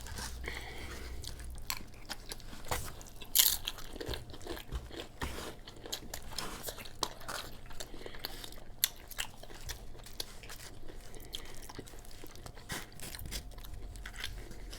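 Crunching and chewing of Doritos tortilla chips loaded with cheese dip, close to the microphone: many sharp crunches, the loudest about three and a half seconds in.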